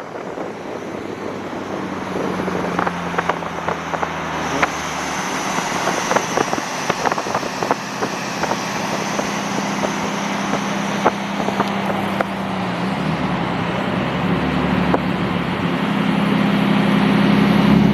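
A car driving, its engine humming steadily and then rising in pitch and loudness over the last few seconds as it accelerates, with road noise and scattered light clicks and knocks.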